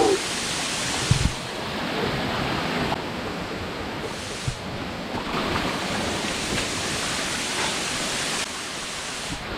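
Waterfall rushing: a steady noise of falling water that swells about a second in and eases near the end, with a few faint knocks.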